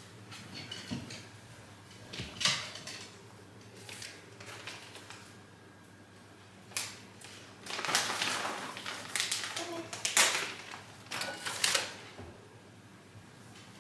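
Scattered clicks and knocks, with a longer stretch of rustling and handling noise near the middle.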